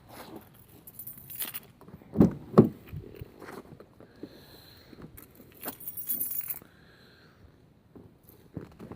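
A bunch of car keys jangling and clinking in the hand, with two thumps close together about two seconds in.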